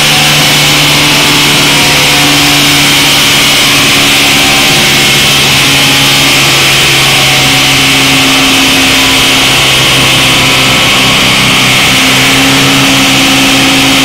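Turbocharged 1.8-litre Rover K-series four-cylinder in an FSO Polonez, running loudly on a chassis dyno at a fairly steady speed, its pitch stepping slightly up and down rather than sweeping, over a steady hiss.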